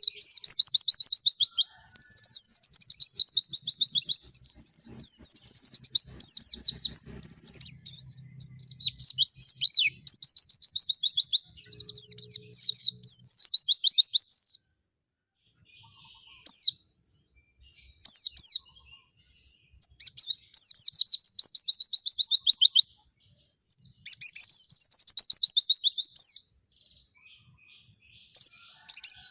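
White-eye (pleci) singing in long runs of very fast, high twittering notes, each run lasting a few seconds. The song thins to scattered single chirps for a few seconds about halfway through, then the full runs resume.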